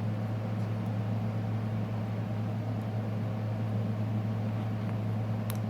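Steady low machine hum, with a light click near the end.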